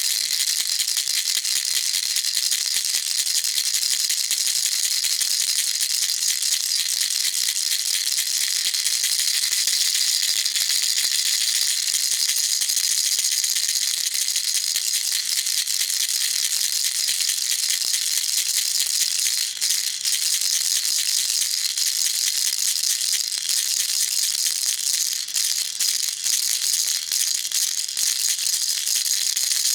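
A baby rattle shaken continuously, its small beads giving a dense, steady, high-pitched shaking rattle with a few brief breaks in the second half.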